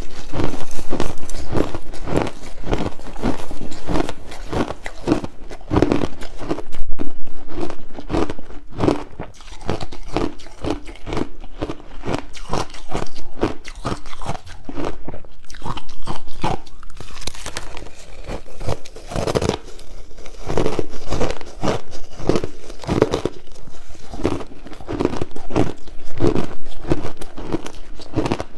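Close-miked crunching and chewing of crushed ice: repeated crisp crunches as big mouthfuls are bitten and chewed, going on without a break.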